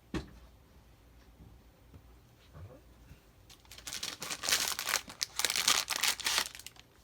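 Wrapping on a new pack of craft envelopes being crinkled and torn open, a dense run of crackling from about four seconds in until shortly before the end. A single short tap comes just after the start.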